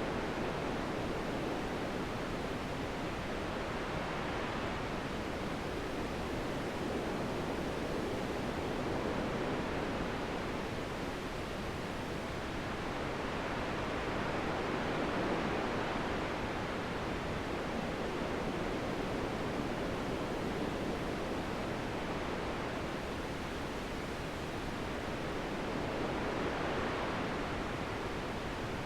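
Wind blowing, a steady rushing noise that swells and eases slowly every several seconds.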